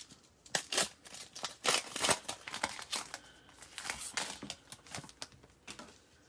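Trading cards and a foil card-pack wrapper being handled: a run of irregular crinkles, rustles and tearing sounds that stops just before the end.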